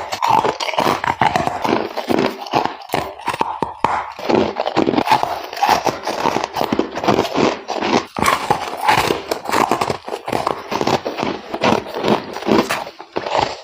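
Ice being bitten and chewed close to the microphone, in dense, irregular crunches that run on with no pause.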